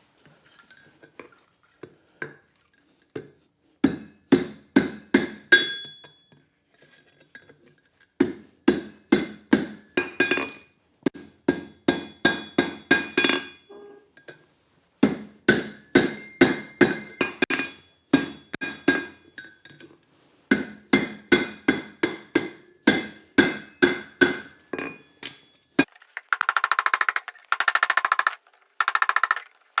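Hand hammer striking hot steel flat bar on an anvil in bursts of quick, ringing blows, about three to four a second, as a punched slot is worked over the anvil horn and the flared ends are knocked down. Near the end, a dense, continuous rasping noise replaces the hammering.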